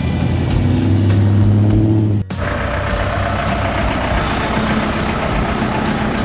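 A car engine running with background music, the engine note rising briefly. About two seconds in, the sound cuts abruptly to a different, noisier engine sound.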